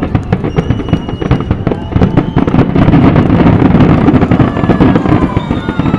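Fireworks going off in a dense barrage of rapid, overlapping bangs and crackles, with thin whistling tones over the top.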